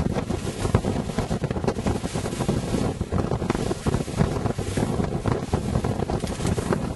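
Wind buffeting the microphone, a constant low rumbling rush that surges up and down, with the wash of a boat on the sea beneath it.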